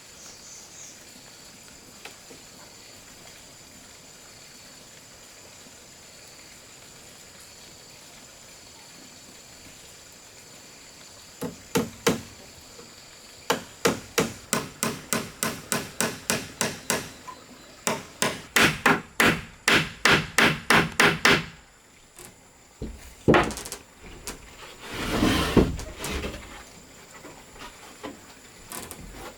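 Hammer striking wood: after a stretch of faint background hiss, two blows, then long steady runs of blows at about three a second, then a single blow and a short scraping rustle near the end.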